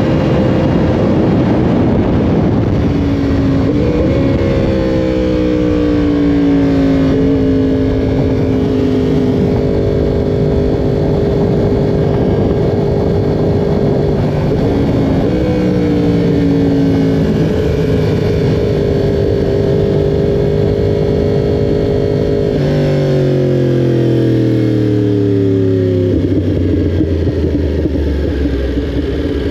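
Yamaha R1 inline-four engine running hard under wind rush. Its pitch jumps up several times and then slides back down, and it falls away steadily late on as the bike slows.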